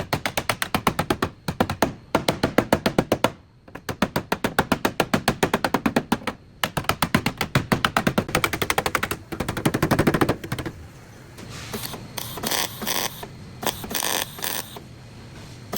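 A power tool hammering rapidly in bursts of one to three seconds, about ten blows a second. About ten and a half seconds in it stops, and quieter irregular clatters and knocks of metal work follow.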